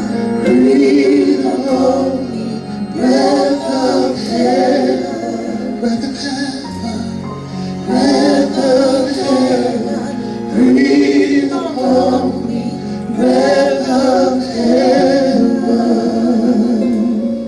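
Live gospel worship singing: sung phrases with vibrato over a keyboard that holds sustained chords and bass notes.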